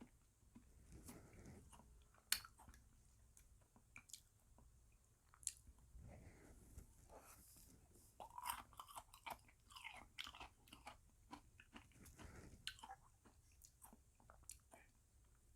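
Close-up mouth sounds of eating frozen bead ice cream: quiet chewing with scattered small crunches and wet clicks, one sharper crunch a couple of seconds in and a busier run of crunching around the middle.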